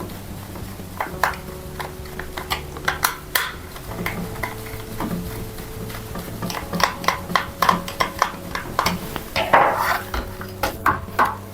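Irregular clicks and clacks of hard parts knocking together as an AK-74 rifle is handled, coming thicker in the second half.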